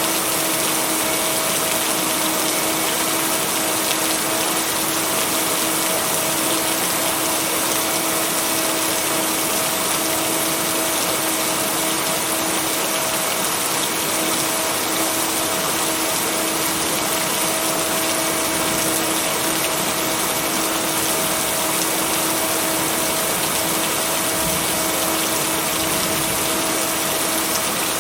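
Steady, dense rain hiss with no break and no thunder clap. Two steady low tones are held underneath it, from the binaural beats blended into the track.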